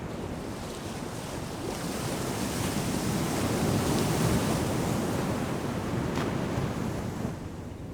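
Ocean surf breaking on a sandy beach: a wave's roar builds about two seconds in, peaks mid-way and fades as it washes out, with fizzing foam and some wind on the microphone.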